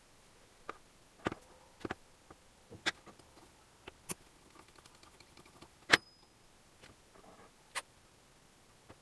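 Scattered clicks and knocks of hand tools and engine parts being handled during engine assembly, about eight sharp ticks at uneven spacing, the loudest about six seconds in.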